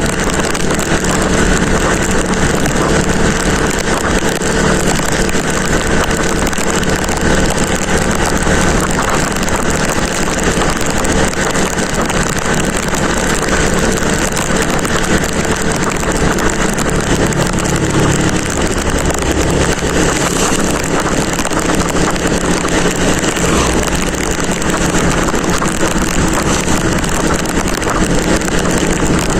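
Motorcycle on the move: the engine runs steadily under a constant rush of wind over the microphone, its note shifting a little about halfway through.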